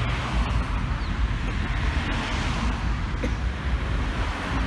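Cars driving past, a steady low engine rumble with tyre and road noise.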